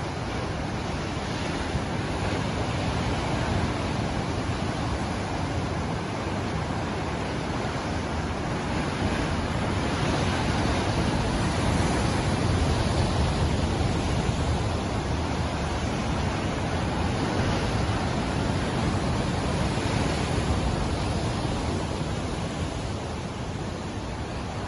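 Ocean surf: a continuous wash of breaking waves that swells gently in the middle and eases off near the end.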